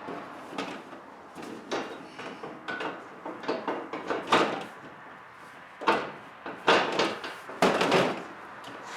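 Cub Cadet lawn tractor's hood being handled and seated over the engine: a run of irregular knocks, clunks and rattles, the loudest in the second half.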